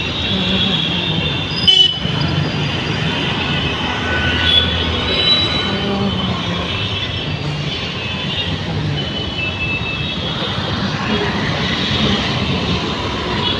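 Suburban electric train running on the rails: a steady rumble with faint high squeals from the wheels coming and going, and a single click a little under two seconds in.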